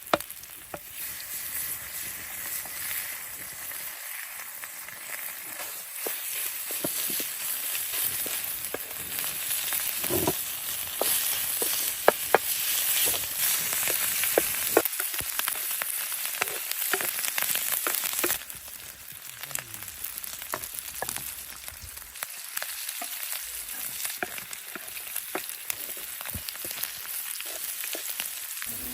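Mushrooms sizzling as they sauté in a pan, with scattered clinks of a utensil stirring against the pan. The sizzle swells toward the middle and drops off suddenly about two-thirds of the way through.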